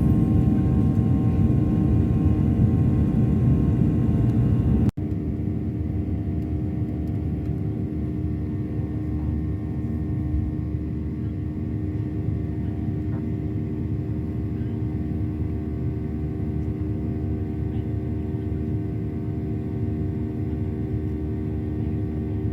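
Jet airliner cabin noise: a steady engine and airflow rumble with a hum of steady tones. About five seconds in there is an abrupt cut, after which the rumble continues a little quieter.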